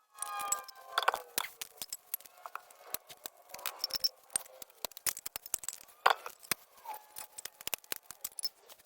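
Hand tools and metal engine parts clinking and clattering during a small-block engine teardown: irregular sharp clicks and knocks, with a brief metallic ring near the start.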